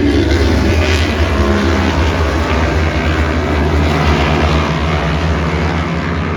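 Racing superbike engines at high revs as bikes pass through a corner, their pitch falling about a second in.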